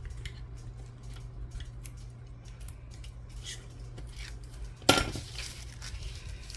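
Paper and craft materials being handled on a tabletop while a folded envelope cover is worked: scattered light rustles and small clicks, with one sharp knock about five seconds in, over a steady low hum.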